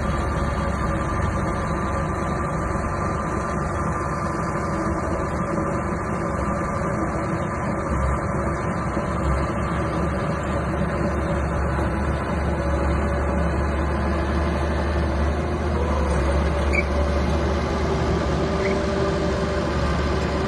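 Small crawler bulldozer's diesel engine running steadily.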